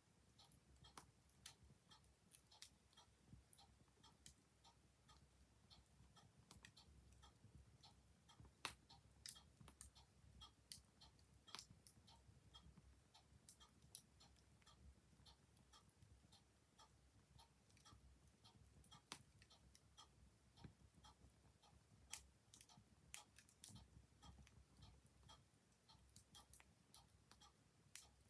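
Faint wood fire crackling, with irregular sharp pops of differing strength over a soft low rumble, and a clock ticking.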